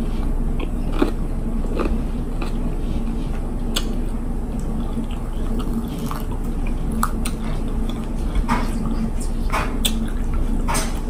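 Close-up mouth chewing of a crunchy mini sweet pepper, with scattered soft clicks and crackles as fingers pull the pepper apart and, near the end, a plastic fork scoops rice. A steady low hum runs underneath.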